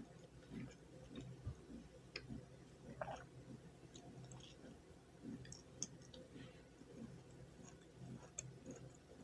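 Faint chewing of food, with scattered soft mouth clicks.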